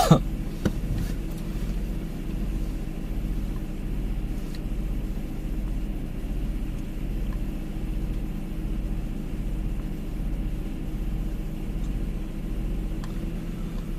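A car engine idling, a steady low hum that swells and fades evenly about twice a second.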